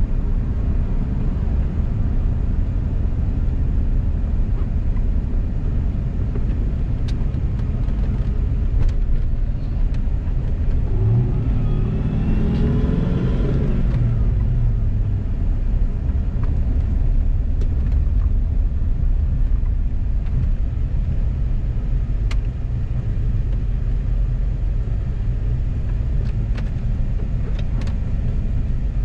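Car driving at low speed with a steady engine and road rumble; about eleven seconds in the engine revs up and pitch rises, then settles back over a few seconds.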